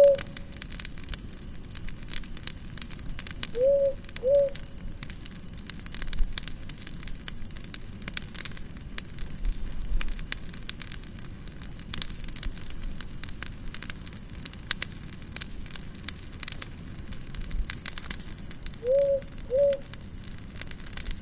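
Fire crackling with frequent small pops. Pairs of short, arched animal calls come near the start and again near the end, and about halfway through there is a quick run of about seven high chirps.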